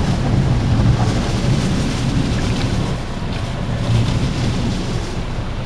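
Automatic car wash heard from inside the closed car: a loud, steady rushing of water spraying against the car body.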